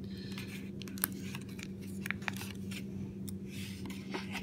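Paper and packaging being handled: soft rustling with a few sharp little clicks, over a steady low electrical hum.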